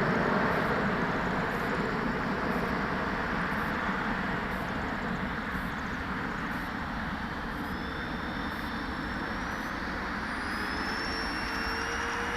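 Electric ducted fans of a radio-controlled model jet running with a steady rushing noise. From about seven seconds in, a whine comes up and climbs in pitch.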